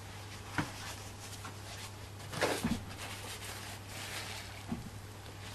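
Handling noises of small craft pieces on a work table: three light taps, about half a second, two and a half seconds and nearly five seconds in, over a steady low hum.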